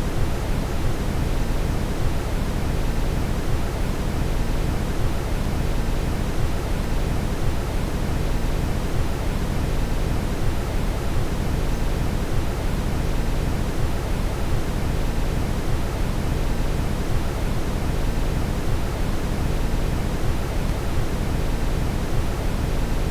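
Steady brown noise: a deep, even rushing hiss, heaviest in the low end, that never changes.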